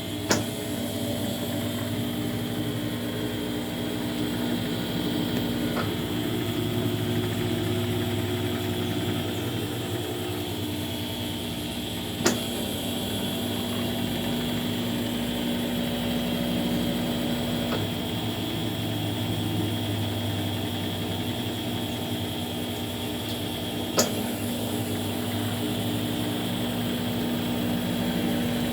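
Consul 11 kg top-loading washing machine running its spin cycle: a steady motor hum and whir. Three sharp clicks come about twelve seconds apart, the first just after the start.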